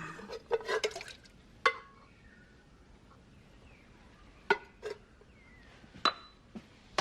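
Scattered clinks and knocks of kitchen containers and dishes being handled: a quick cluster in the first second, then single knocks spread out over the rest.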